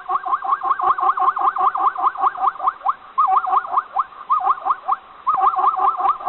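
An animal giving a fast run of short squeaky chirps, about seven a second, each swooping up and down in pitch, in bouts broken by brief pauses.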